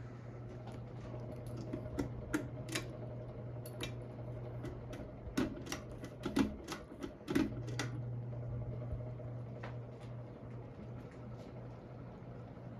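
Hampton Bay Gazebo Plus ceiling fan running with a steady motor hum, joined in the middle by a string of sharp, irregular clicks.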